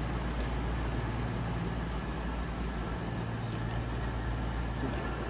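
Class 222 Meridian diesel multiple unit with its underfloor diesel engines running, a steady low hum.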